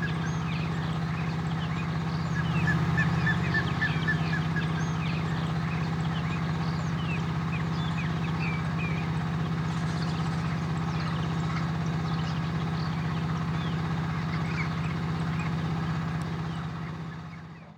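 A steady engine hum with many birds chirping over it in quick, short calls, the whole fading out near the end.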